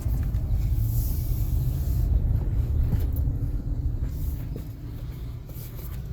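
Low rumble of a car heard from inside the cabin while driving, easing off over the last couple of seconds as the car slows.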